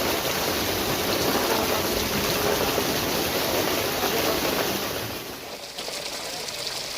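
Steady rush of water from heavy rain on a flooded road, dropping in level about five and a half seconds in.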